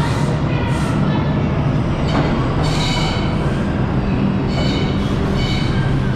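Ride noise inside an R142 subway car: a steady low rumble and hum, broken every second or two by high-pitched squealing tones from the running train.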